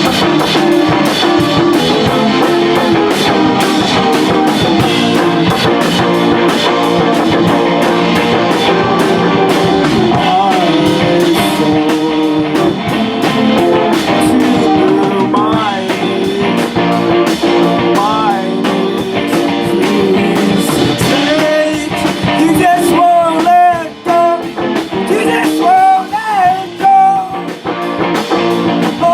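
Live rock band playing a song: guitar and drums, with a voice singing over it in the second half.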